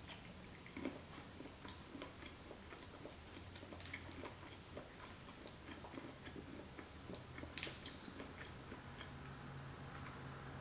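Soft chewing and wet mouth clicks of someone eating peeled cooked shrimp from a shrimp cocktail, with a few sharper clicks scattered through.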